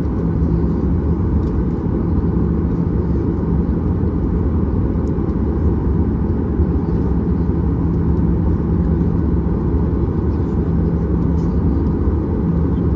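Steady low rumble inside the cabin of a Boeing 737-800 taxiing, its CFM56 engines running at low taxi thrust, with a constant low hum under the noise.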